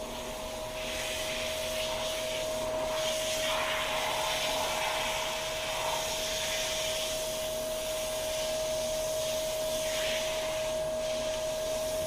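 Water spraying steadily at heavy pressure from a handheld shower head, running through a dog's wet fur, with a constant tone held under the hiss.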